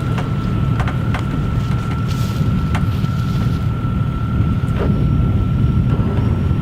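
A vehicle engine running steadily with a low rumble, under a constant high whine, with a few scattered sharp clicks.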